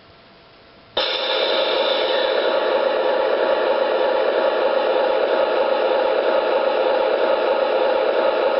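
Model train departing, a steady hiss and hum with several steady tones underneath, coming in suddenly about a second in after a faint hiss.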